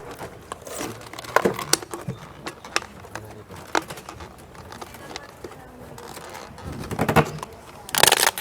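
Crinkling and sharp clicks of craft materials, such as plastic and tape, being handled. The clicks are scattered and irregular, with a louder, denser run of them near the end.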